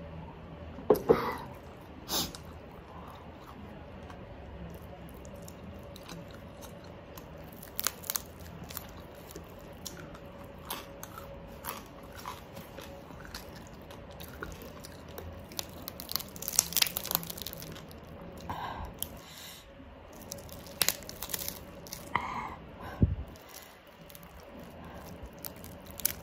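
Close-miked mouth sounds of eating: chewing and crunching crispy oven-roasted pork skin, with irregular sharp crackles and wet smacks. A single low thump comes near the end.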